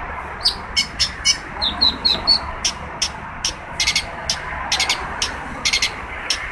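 Long-tailed shrike (cendet) singing: a rapid, irregular series of short, sharp, harsh notes mixed with a few quick rising chirps, over a steady background hiss.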